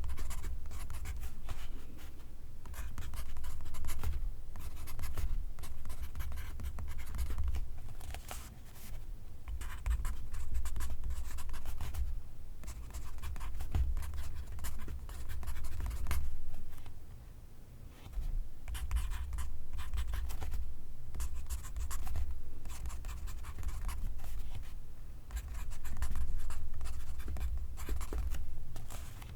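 Pencil writing on paper: a run of quick scratchy strokes, with short pauses between words or lines.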